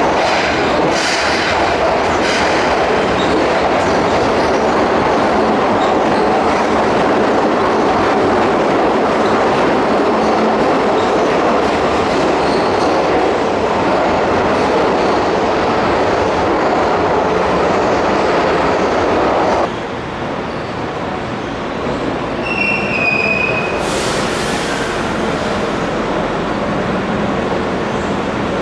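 Keihan Main Line electric train running along the platform, wheels clattering over rail joints with some squeal. The loud running noise cuts off abruptly about twenty seconds in, leaving a quieter rumble with a short high squeal and a burst of hiss near the end.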